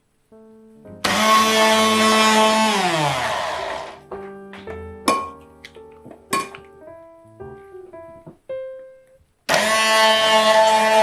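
Electric blending appliance's motor run in two pulses: it runs for about two seconds, then winds down with falling pitch, and starts again near the end. Soft background music with piano-like notes plays between the pulses.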